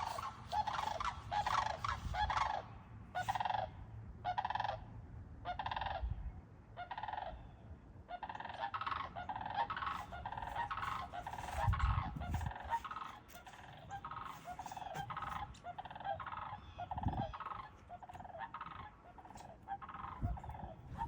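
Geese honking in a long series of repeated calls, roughly two a second, the calls crowding closer together in the second half. A few low rumbles come in between.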